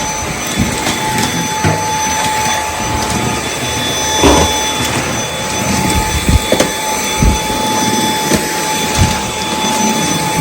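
Dyson V8 cordless stick vacuum running on minimum power with its Fluffy soft-roller head on a tile floor: a steady motor whine over airflow hiss. Occasional short knocks are heard as the head is pushed and swivelled.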